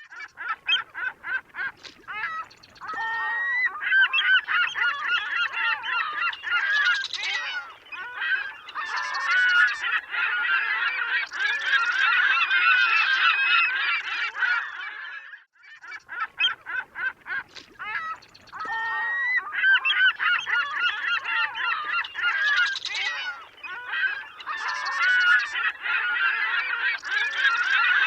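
A flock of gulls calling, many overlapping cries at once. It drops away briefly about halfway through, then starts again.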